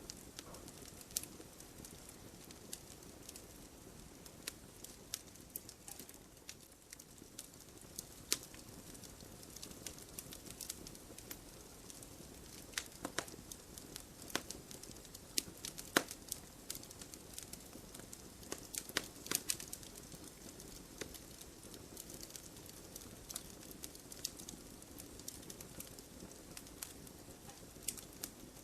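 Wood bonfire crackling: sharp pops and snaps at irregular intervals over a faint steady hiss of the flames.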